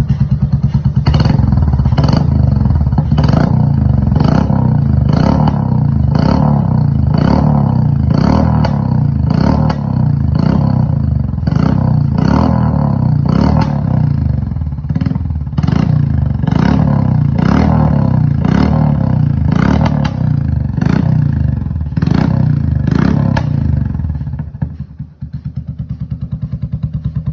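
Royal Enfield motorcycle engine running through a loud aftermarket silencer, with a sharp crack from the exhaust about twice a second over a steady low drone. Near the end the cracks stop, the sound briefly drops away and it settles into a steady idle.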